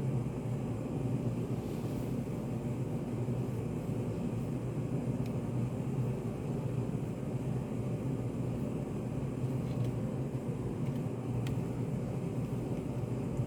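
Steady low hum of a study cafe's room ambience, with a few faint small clicks now and then.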